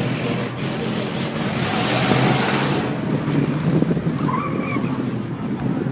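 Car engine running with a steady low rumble, under a loud rushing hiss that cuts off about three seconds in.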